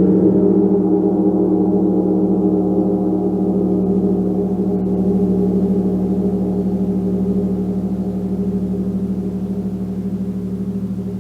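Gong ringing out in a sustained wash of many overlapping low tones with a wavering shimmer, slowly fading with no new strike.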